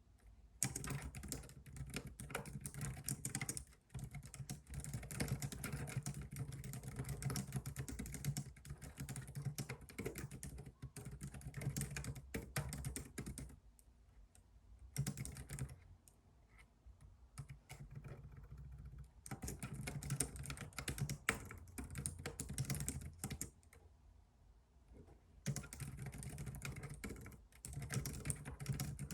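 Fast typing on a computer keyboard, dense runs of key clicks in several long bursts broken by short pauses.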